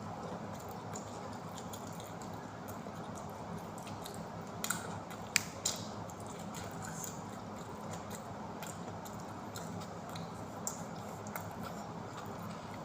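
Someone eating and chewing food, against a steady low background hum, with a few sharp clicks or taps near the middle.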